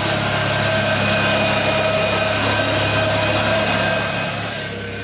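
Small engine of a riding lawn tractor running steadily at an even speed.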